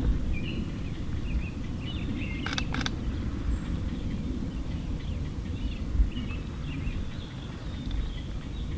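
Small birds chirping on and off over a steady low rumbling background noise. A short run of sharp clicks comes about two and a half seconds in.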